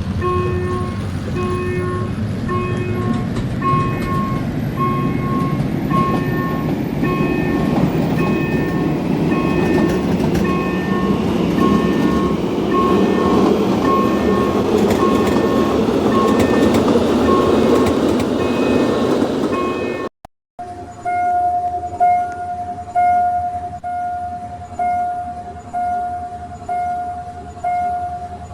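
Railway level-crossing warning bells ding over and over while a train hauled by a Hitachi diesel locomotive rumbles past, its noise building to a peak in the middle. After a short break, a different crossing bell rings, one decaying ding about every second.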